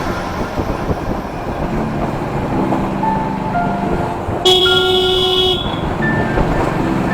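Road traffic noise with a vehicle horn blaring once for about a second, roughly four and a half seconds in.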